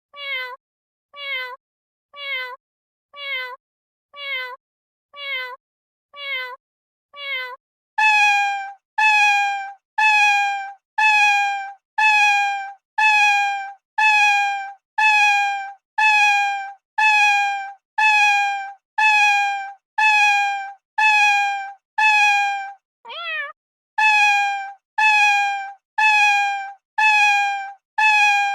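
A domestic cat meowing: short, identical, falling meows repeated at an even pace, about three every two seconds. About eight seconds in, the meows switch to a louder, higher-pitched call, and near the end one meow with a rising-then-falling shape breaks the pattern.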